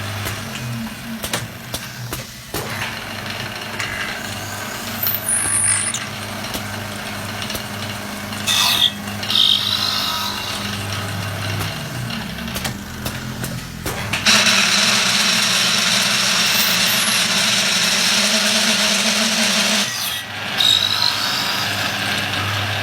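Automatic wood lathe running with a steady motor hum and the rasp of its cutter on wood, with a few clicks and short squeals. About two-thirds of the way through, a louder stretch of cutting noise lasts roughly six seconds, then drops back.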